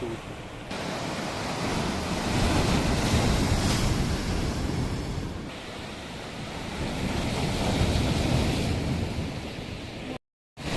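Sea waves washing onto the shore, swelling twice, with wind buffeting the microphone. The sound cuts out completely for a moment near the end.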